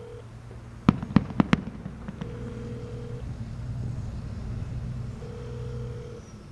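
Fireworks going off: four sharp bangs in quick succession about a second in, followed by a few fainter pops.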